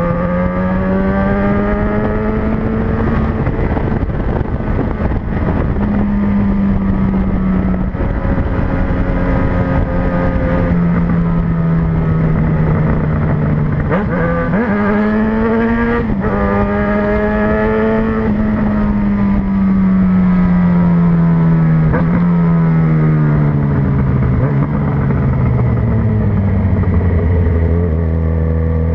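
Yamaha XJ6N's 600cc inline-four engine running through traffic, its pitch rising and falling as it speeds up and eases off, with quick gear changes in the middle and a long slow-down near the end. A steady rush of wind and road noise runs underneath.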